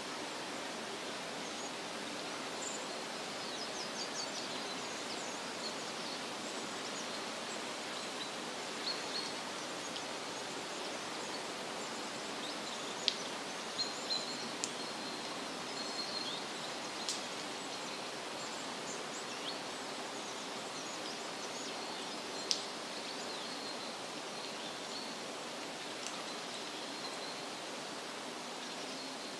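Forest ambience: a steady rushing hiss of wind in leaves or running water, with faint high bird chirps scattered through it and a few sharp ticks near the middle.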